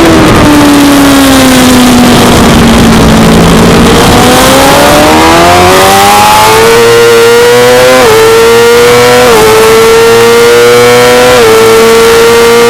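Suzuki GSX-R600 inline-four sport bike engine at racing speed under a loud rush of noise. The engine note falls as the bike slows for a corner, then climbs hard under acceleration, with quick upshifts that drop the pitch about eight and nine seconds in.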